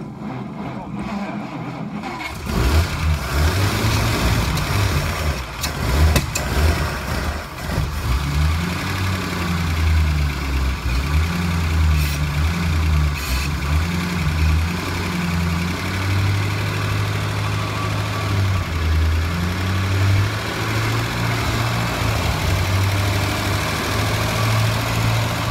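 1949 Packard straight-eight flathead engine being started, catching about two seconds in and then running, its speed rising and falling unevenly. It is an engine brought back to life after sitting for years on old ethanol gas.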